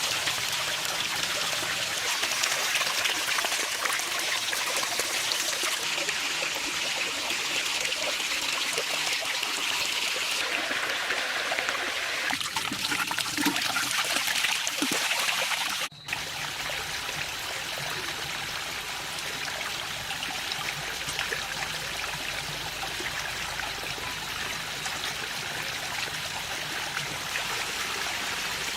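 Running water trickling and splashing steadily. About halfway through it drops out for an instant and resumes slightly quieter.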